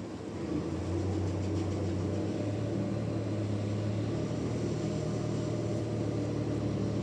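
Sawmill machinery running with a steady low hum that swells slightly about a second in and then holds level.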